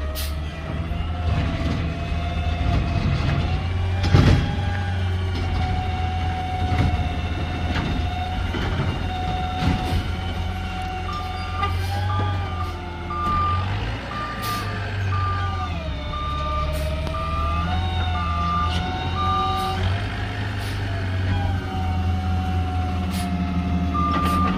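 Garbage truck running with a low engine drone and a whine that rises and falls, with a loud knock about 4 s in and other scattered knocks. Its reverse alarm beeps steadily for about eight seconds past the middle and starts again near the end.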